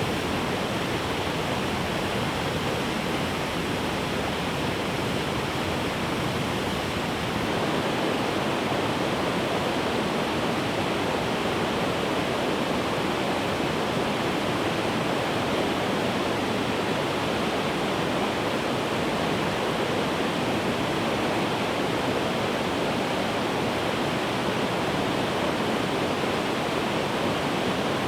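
Flowing river water making a steady rush, a little louder after about seven seconds.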